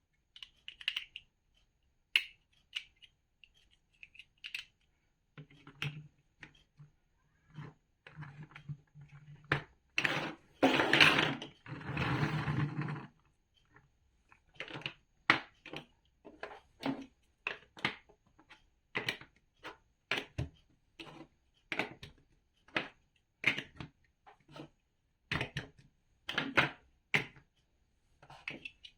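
Large plastic building bricks clicking and snapping as they are handled and pressed together, in a string of irregular sharp clicks. About ten seconds in there is a few seconds of louder, denser rattling.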